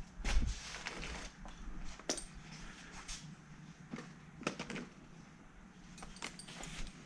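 Several light, scattered clinks and knocks of metal objects being handled, with short pauses between them.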